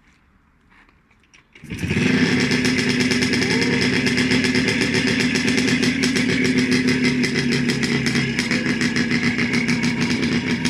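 A few faint ticks, then a Minsk motorcycle engine comes in suddenly a little under two seconds in and runs steadily with a fast, even beat.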